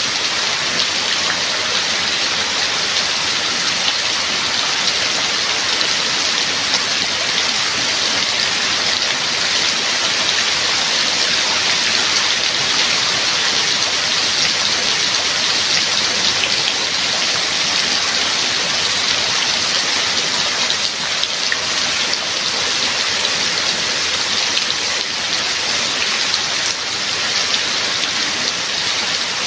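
Steady heavy rainfall, a dense even patter of drops with occasional sharper drop ticks.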